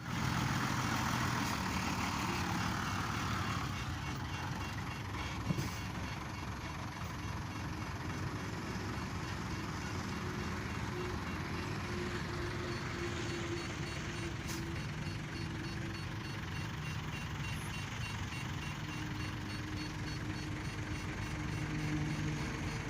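Diesel engine of heavy earthmoving machinery running steadily, with a single sharp knock about five and a half seconds in.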